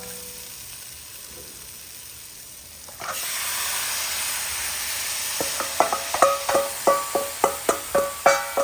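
Chicken gizzards dropped into a hot pot of curry paste, setting off a loud sizzle about three seconds in. From about five seconds, a run of ringing knocks at two to three a second joins the sizzle.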